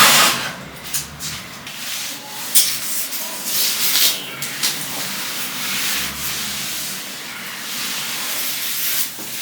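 Cleaning by hand: rubbing and scrubbing on a surface in uneven strokes.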